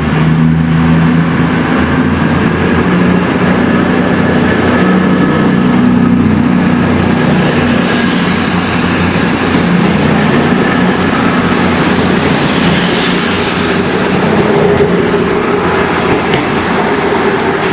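Passenger train running close by at the platform, loud and steady, its engine and wheels running under a high whine that rises over the first several seconds and then holds.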